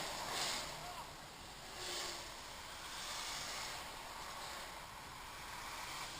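Road traffic noise: a steady rush of wind and tyre noise, with vehicles swishing past several times.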